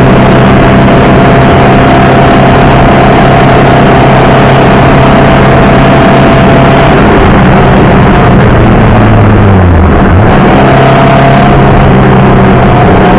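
Air-cooled Porsche Type 4 flat-four with Weber carburettors in a VW Beetle 1303, running hard under load at a steady pitch. About ten seconds in its pitch sags and breaks off for a moment, then picks back up.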